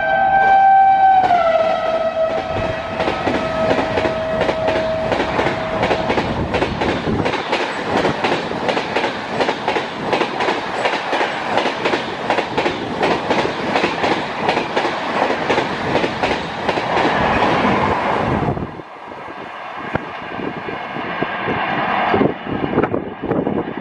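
Electric locomotive of the Rajdhani Express blowing its horn while passing at high speed, the horn's pitch dropping about a second in as the locomotive goes by; the horn stops after about six seconds. The coaches then rush past with a fast clickety-clack of wheels over the rail joints, which drops away sharply near the end as the last coach clears.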